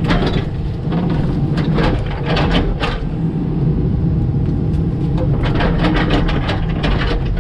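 Komatsu PC88 mini excavator's diesel engine running under load while it uproots small trees, with many sharp cracks and snaps of wood and roots and clunks of the bucket, clustered in the first few seconds and again near the end.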